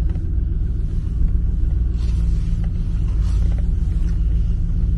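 Vehicle engine idling steadily with a deep exhaust rumble, just after a slow-cranking cold start on a weak battery.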